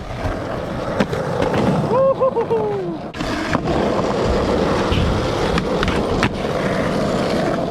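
Skateboard rolling steadily, with several sharp clacks of the board at uneven intervals. A short vocal call sounds about two seconds in.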